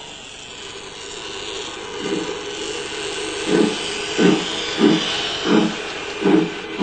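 Steam locomotive hissing steam, then about three and a half seconds in starting a slow, regular chuffing of about one and a half beats a second.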